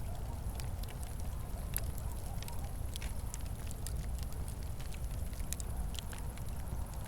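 Wood fire crackling: irregular sharp pops and snaps scattered over a steady low rumble of burning flames.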